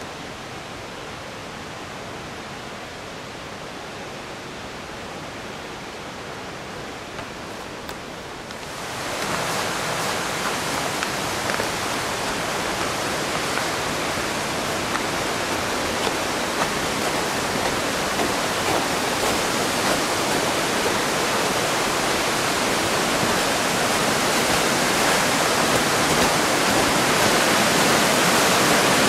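Rushing mountain stream, a steady wash of water noise that jumps sharply louder about nine seconds in and keeps growing toward the end.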